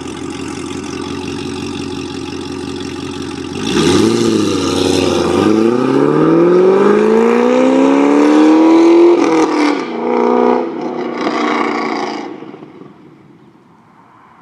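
Chevrolet Camaro ZL1's supercharged V8 through a Corsa exhaust, idling steadily, then a quick rev about four seconds in. It then accelerates hard with the pitch rising for several seconds, drops abruptly about nine seconds in, and the sound fades away near the end.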